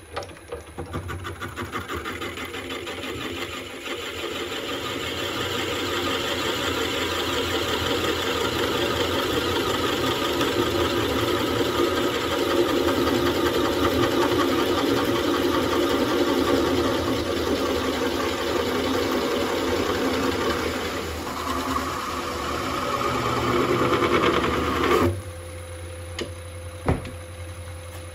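Wood lathe running with a tool working a spinning wood burl, a steady dense noise with a rapid rattling texture. The cutting noise drops off suddenly about 25 seconds in, leaving the lathe's lower hum, and a single knock follows soon after.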